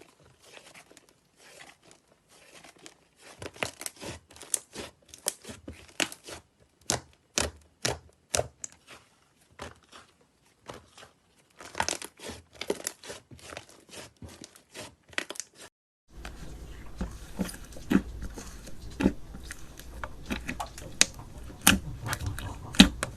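Slime being squeezed, stretched and pulled apart by hand, giving dense irregular crackling and popping. About 16 s in it switches abruptly to another slime with a steady low background hum under sharper, louder pops.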